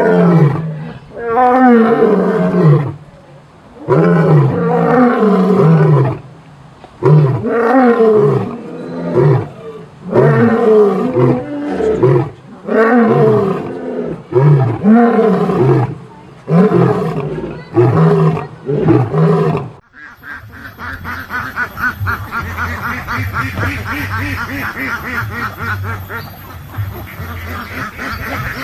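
Loud animal calls, repeated one after another, each lasting about a second with a bending pitch. About two-thirds of the way through the sound changes abruptly to a quieter, continuous rapid chatter of higher-pitched calls from a different animal or group of animals.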